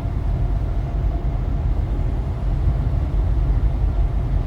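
Steady low rumble of a semi-truck at highway speed, heard from inside the cab: engine and road noise without any change in pace.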